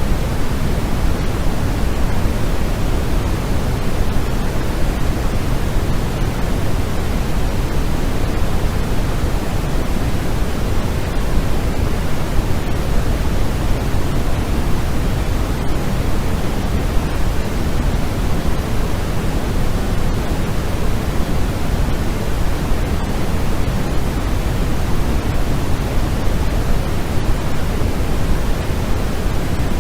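Steady, unchanging synthetic noise played as a sleep sound, heavier in the low end than the highs, like pink noise.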